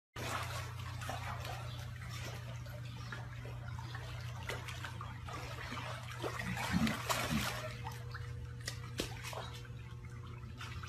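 Water trickling and splashing with many small drips, over a steady low hum.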